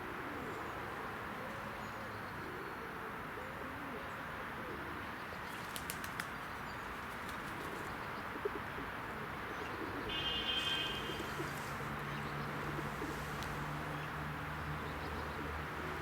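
Pigeons cooing, low rolling coos mostly in the first few seconds, over steady outdoor background noise. A few sharp clicks come around the middle, a short higher bird call about ten seconds in, and a low steady hum after that.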